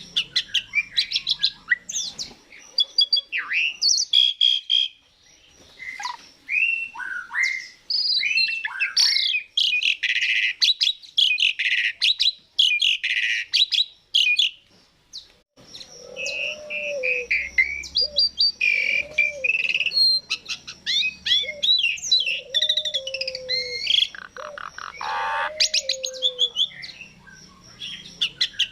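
Pied starling (jalak suren) singing: a varied, fast stream of squeaky chirps, rattling clicks and whistles. After a short pause about halfway, a run of lower, repeated whistled notes follows, mixed with higher chirps.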